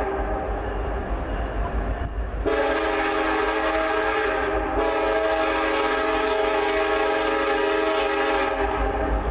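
Locomotive air horn blowing: one blast breaks off about two seconds in, then a second long blast sounds until near the end, over the deep rumble of the train.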